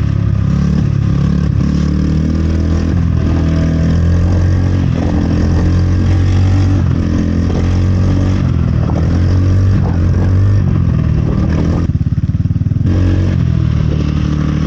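Steady, loud rumble of a two-wheeler on the move: wind buffeting the microphone along with motor and tyre noise.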